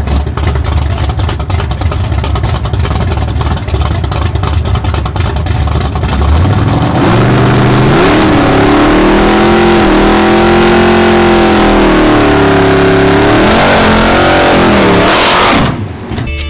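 Car engine running with a loud, rough rumble, then revved up about six seconds in and held high for several seconds, dipping twice before it cuts off suddenly.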